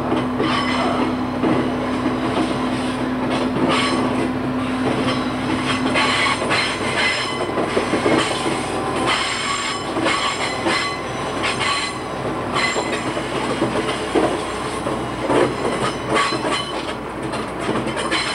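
Diesel train heard from the driver's cab, running over jointed single track on curves: wheels knocking and clattering over the rails with high flange squeal, over a steady running rumble. A steady hum under it drops away about six seconds in.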